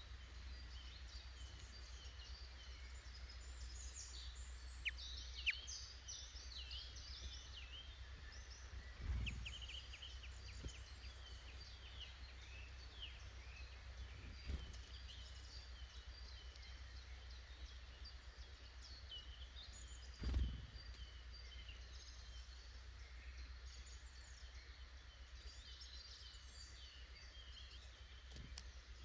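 Woodland birds chirping and calling, many short overlapping calls throughout, over a steady low rumble. A few dull thumps stand out, the loudest about nine and twenty seconds in.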